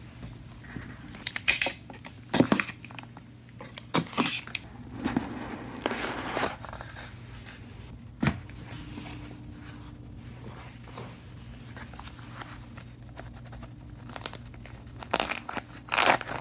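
Tablet box packaging being handled and opened: irregular crinkling and tearing rustles in several spells, with a single sharp click about eight seconds in.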